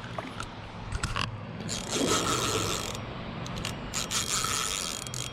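Fishing reel's drag ratcheting in two long bursts as a hooked carp runs and pulls line off the spool.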